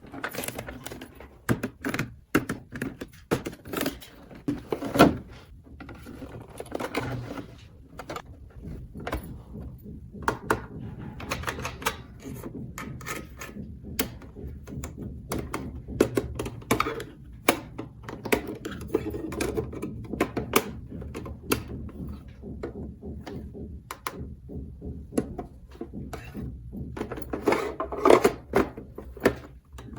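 Small plastic toy pieces handled and clicked together: a long run of irregular light clicks and knocks, with a few louder ones near the start and near the end.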